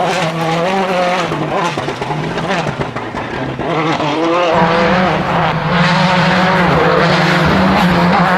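World Rally Car's turbocharged engine revving hard, the pitch climbing and dropping with the gear changes, louder from about halfway in.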